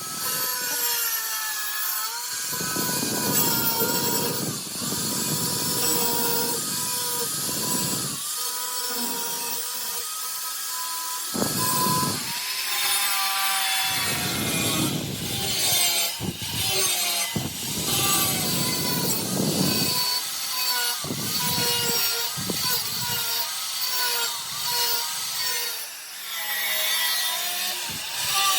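Angle grinder working the steel of a circular saw blade: a steady motor whine that dips in pitch each time the disc bites, over a hiss of abrasive on metal, with heavier rumbling stretches where it is pressed harder.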